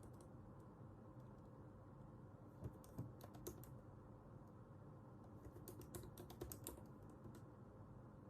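Computer keyboard typing, faint, in two short bursts of keystrokes about a second long each, the second a little longer, over a steady low room hum.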